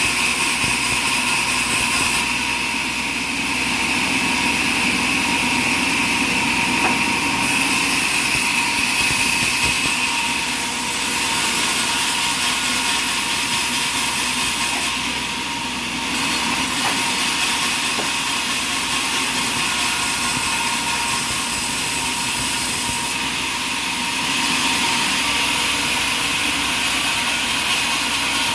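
Sawmill saw running and cutting through a large oak log: a steady machine noise with a constant whine, easing briefly three times.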